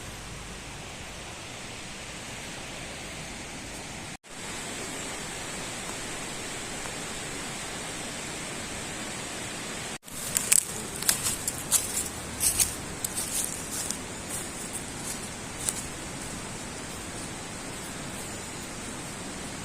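Steady outdoor hiss, cut by two sudden dropouts about four and ten seconds in. After the second, an irregular run of sharp crackles and clicks goes on for about five seconds.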